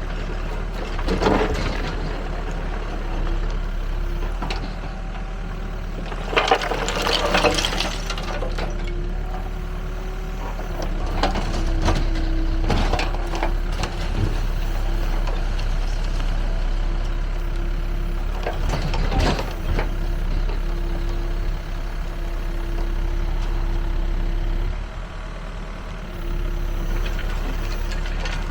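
Backhoe loader engine running steadily, with a humming tone that comes and goes and several bursts of rattling and clatter from soil and rubble in a roller screening bucket.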